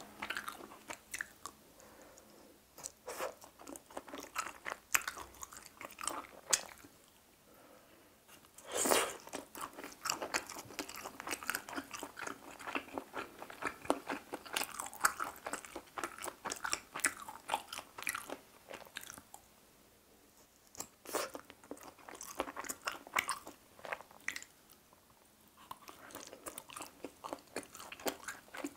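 A person chewing teriyaki-glazed chicken heart skewers: a dense run of small sharp clicking mouth sounds that stops briefly a few times.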